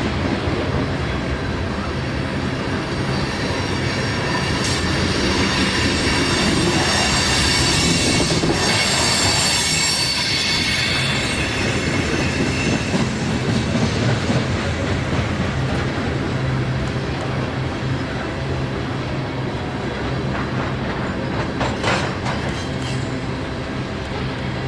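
CSX freight train cars rolling past on the River Line, with a steady rumble and clicking over the rail joints. A high wheel squeal rises in the middle and then fades.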